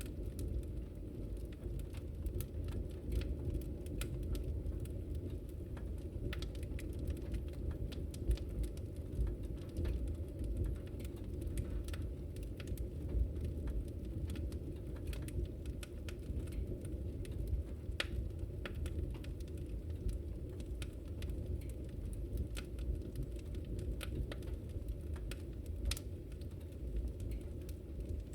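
Wood fire crackling in a fireplace: a steady low rumble of the flames with irregular sharp pops and snaps scattered throughout.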